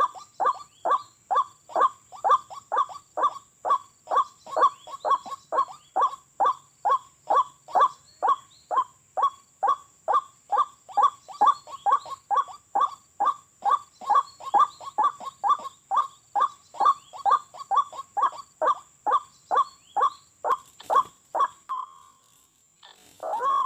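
White-breasted waterhen (ruak-ruak) calling: a long, even series of short, harsh notes at about two to three a second, the monotonous call used to lure the birds. The series stops shortly before the end, and one different, longer call follows.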